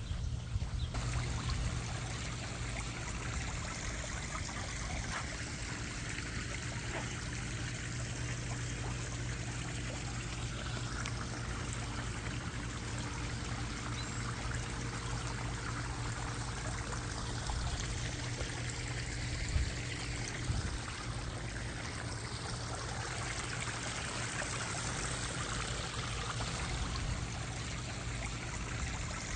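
Water splashing and trickling steadily from a backyard garden pond's waterfall and fountain, with a couple of brief knocks about two-thirds of the way through.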